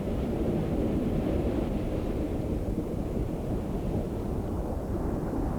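Steady, low rushing noise of surging ocean water.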